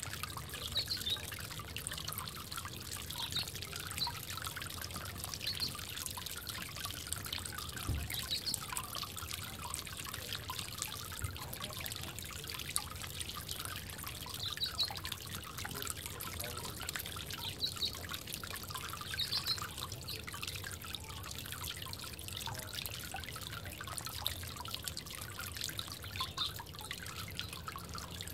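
Water trickling and dripping steadily in a bird bath. Short high-pitched notes come every few seconds.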